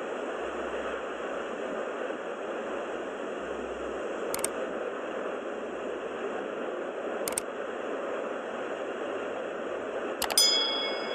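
Steady noise hiss, with two faint clicks partway through and, near the end, a sharp click followed by a short ringing tone.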